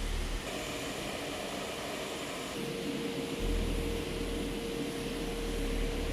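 Jet aircraft engines running: a steady rushing noise, joined about halfway through by a steady whine and then a deep rumble.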